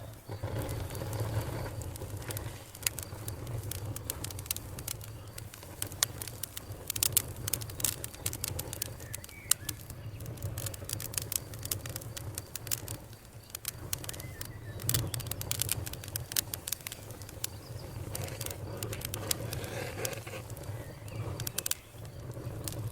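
Wood fire burning in a fireplace: many quick, sharp crackles and pops, thicker in clusters, over a steady low rumble of the flames.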